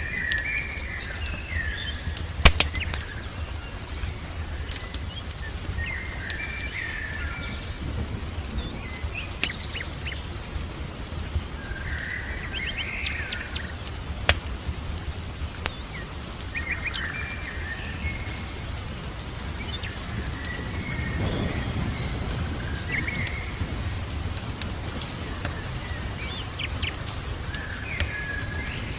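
Small songbirds chirping in short phrases every few seconds, over a steady low rumble and an even hiss. Sharp pops and crackles of a wood fire are scattered throughout, one loud pop about two and a half seconds in, and the low rumble swells briefly a little past two-thirds of the way through.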